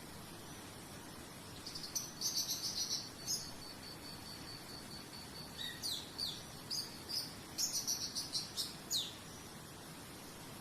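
A songbird singing in two bursts of rapid high trills, about two and eight seconds in, with quick downward-sliding notes between, over a cricket's steady pulsing chirp and a faint hiss.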